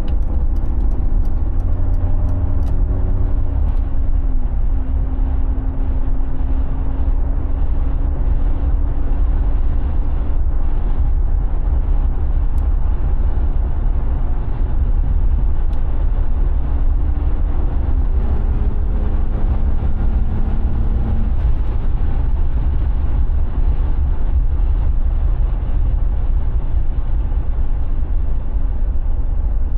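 Mercedes G36 AMG's 3.6-litre straight-six engine running with a steady heavy low rumble. Its note drops about four seconds in and steps up again around eighteen seconds.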